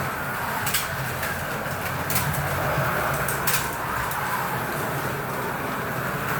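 Carrera Digital slot cars running laps on a plastic track: a steady whine of their small electric motors and rattle of wheels and guides in the slots, with a few sharp clicks.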